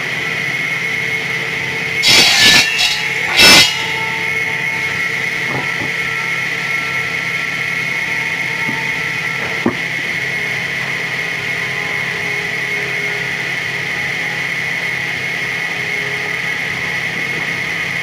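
Sawmill machinery running steadily with a constant high whine, and two loud harsh bursts about two and three and a half seconds in, with a single sharp click later.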